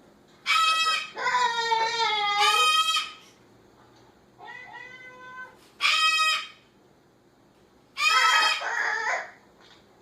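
Pet parrot mimicking a cat: a run of loud, wavering meow-like calls, the longest drawn out over about two seconds near the start, with a fainter call in the middle.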